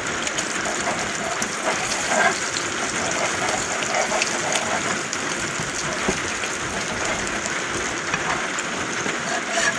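Steady hiss with fine crackling from eggs frying in a cast iron pan on a gas camp stove, mixed with rain on the roof.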